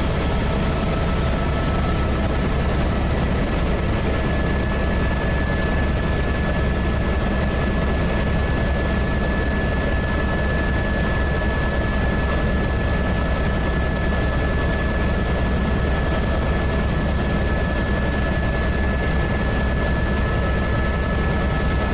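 Helicopter in steady flight heard from inside the cabin: a constant deep rotor and engine drone with a thin, steady high whine over it.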